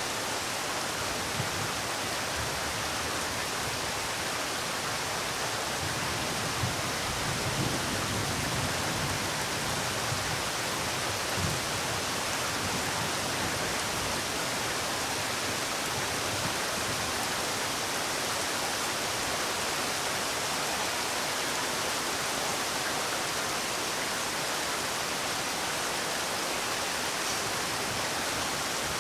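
Steady rain falling, an even hiss, with a few single louder drops or taps standing out now and then.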